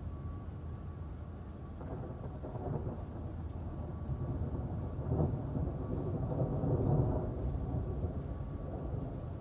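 Rolling thunder rumbling low over steady rain, building from about two seconds in to its loudest near seven seconds, then easing off. A faint steady hum sits underneath.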